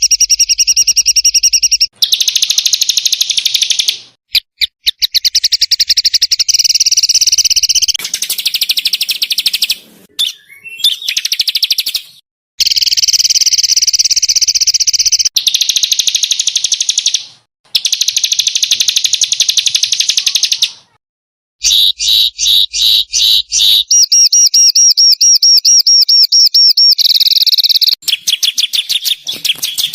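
Small songbirds giving rapid, harsh, high-pitched trills in fast rattling bursts ('tembakan kasar'). The recordings are spliced together, so the song switches abruptly every few seconds, with a few brief silent gaps.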